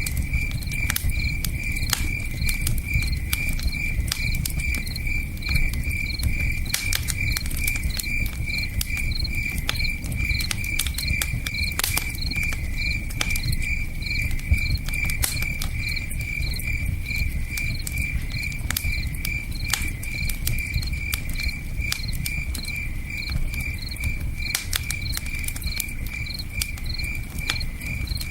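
Crickets chirping in a steady, even rhythm over a campfire's sharp crackles and pops, with the low rush of a river underneath.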